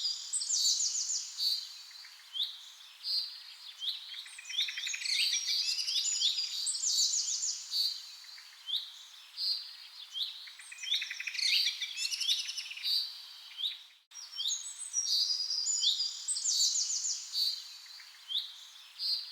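Songbirds chirping, with quick overlapping calls, short downward-sweeping notes and rapid trills. The sound cuts out for a moment about fourteen seconds in.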